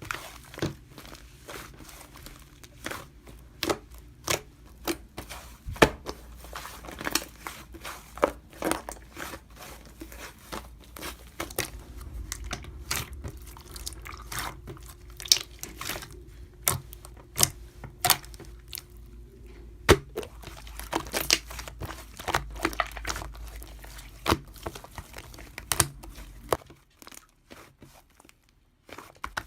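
Irregular sharp clicks with crinkling and tearing handling sounds, over a low steady hum; they stop briefly near the end.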